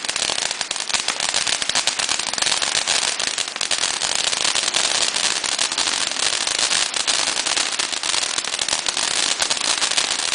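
Fireworks crackling continuously: a dense, even stream of small pops running together, with no single big bang.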